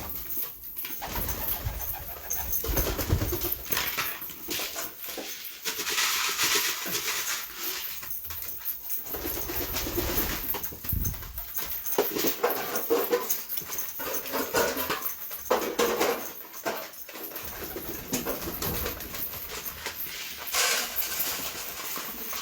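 Domestic pigeons moving about in a loft: irregular bursts of wing flapping and scuffling.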